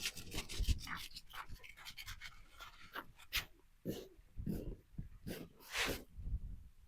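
Beagle sniffing and breathing: a quick run of short, irregular sniffs, then a few longer huffs in the second half.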